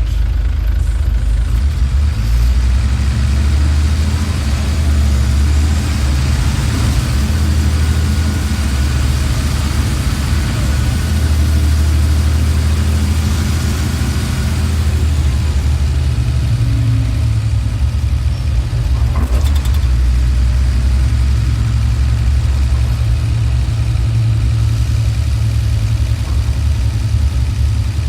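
Volvo TD63 six-cylinder turbodiesel in a 1994 Volvo B6BLE bus running, a steady low diesel rumble with only slight changes in pitch.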